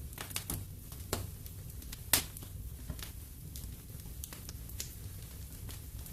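Fireplace fire crackling: irregular sharp pops and snaps over a steady low rumble, the loudest pop about two seconds in.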